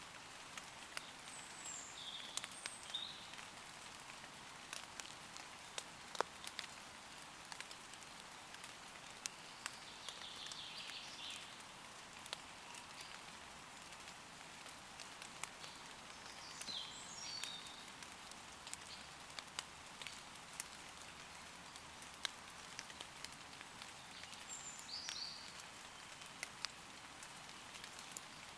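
Light steady rain falling on leaves, a fine hiss dotted with sharp ticks of individual drops. Short high bird chirps come through a few times.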